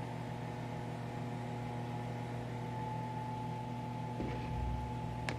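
Teka MWL 32 BIS INOX built-in microwave oven running with a steady hum, and a sharp click near the end.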